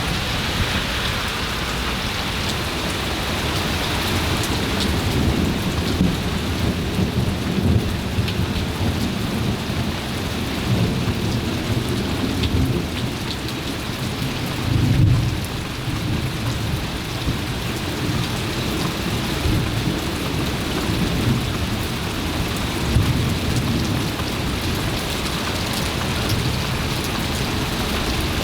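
Rain falling steadily, with thunder rumbling low through it in repeated rolls; the strongest roll comes about halfway through.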